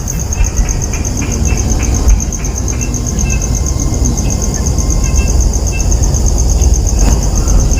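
Insects chirping steadily in a fast, even pulse, over a loud low rumble such as wind buffeting the microphone.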